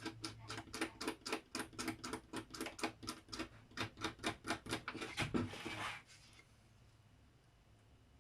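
Rapid, rhythmic scrubbing strokes, about four a second, of cotton being rubbed over an LCD TV's flat ribbon cables to clean corrosion off them. The scrubbing stops about six seconds in.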